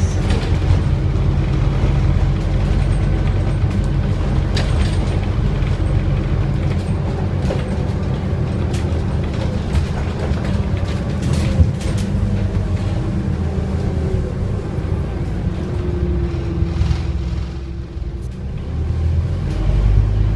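Scania N230UD Omnicity double-decker bus's five-cylinder Euro V diesel engine running on the move: a steady low drone with scattered rattles and clicks. Near the end the engine note drops away briefly, then picks up again.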